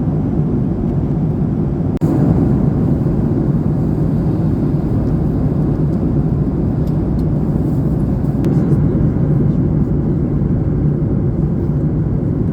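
Steady cabin noise of a Boeing 737 MAX 8 in flight: a constant low rush of engine and airflow, with a brief break about two seconds in.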